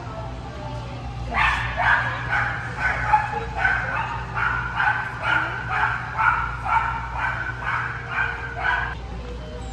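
A dog barking repeatedly, about two short, high-pitched barks a second, starting about a second in and stopping near the end.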